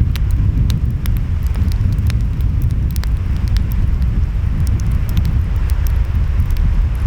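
Wood fire crackling, with many short, sharp, irregular pops, over a steady low rumble of surf and wind.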